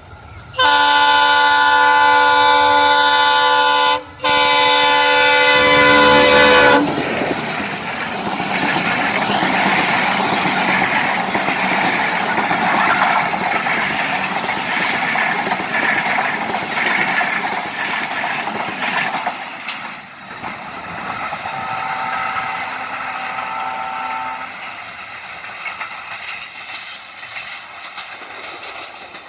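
Diesel-electric locomotive's multi-tone air horn sounding two long blasts, with a brief break between them. Then the passenger coaches roll past with a steady rush and clatter of wheels on rail. A fainter horn blast follows later as the train draws away.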